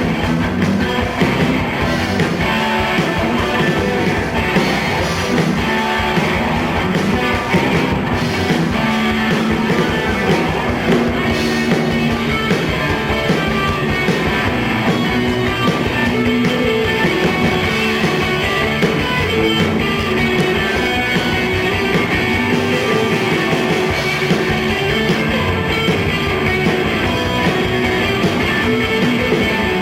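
Live rock band playing an instrumental passage, loud and continuous, with guitar to the fore.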